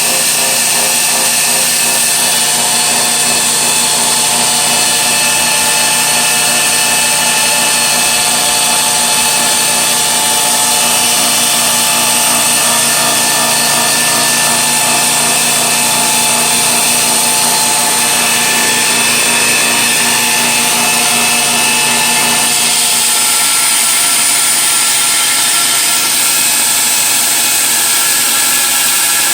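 A 2x72-inch belt grinder running steadily: electric motor and abrasive belt with a constant whine and hiss. Its tone shifts slightly about two-thirds of the way through.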